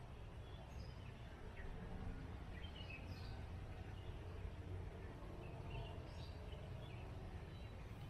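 Birds chirping now and then, short high calls scattered through, over a steady low background hum.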